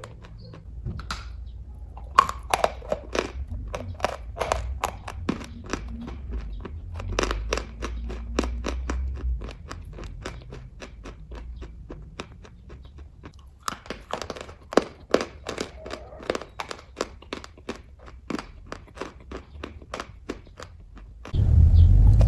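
Close-up chewing of kaju katli cashew fudge: quick, sticky mouth clicks and smacks, several a second, with a short pause in the middle. About a second before the end a louder low rumble starts suddenly.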